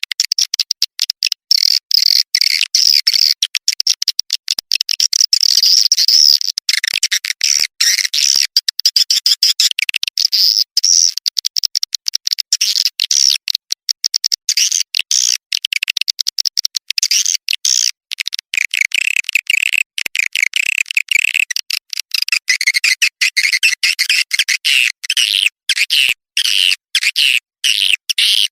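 Swiftlet call track for luring swiftlets into a bird house: dense, rapid, high-pitched chirping and twittering of edible-nest swiftlets, with no low end and many brief dropouts.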